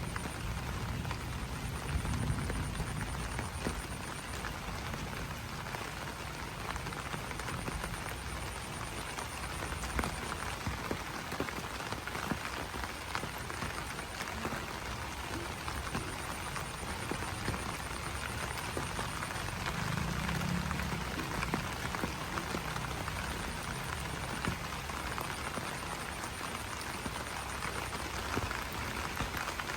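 Rain falling on banana leaves: a steady patter with individual drops tapping on the leaves. A faint high pulsing trill comes and goes throughout.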